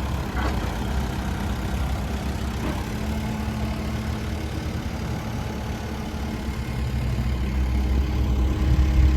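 Diesel engine of a JCB 214 Series 2 backhoe running steadily, getting louder over the last couple of seconds.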